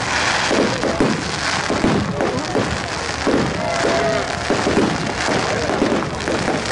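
Fireworks going off overhead: repeated bangs and dense crackling from bursting shells, with a crowd talking underneath.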